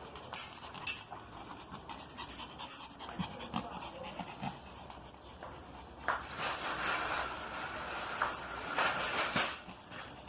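Dog panting, heaviest in a stretch from about six to nine and a half seconds in, with light clicks and taps before it.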